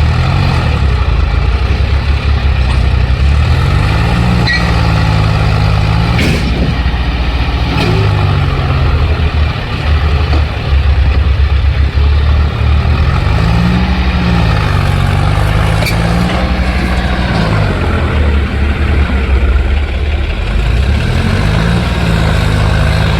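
Tractor diesel engine running under load, its pitch rising and falling several times, with one sharp click about six seconds in.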